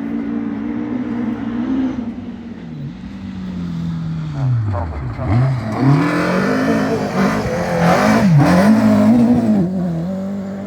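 Rally car engine revving hard through a stage, its pitch falling and dropping sharply several times on lift-off and gear changes around the middle, then climbing again. It is loudest about eight seconds in as the car passes close.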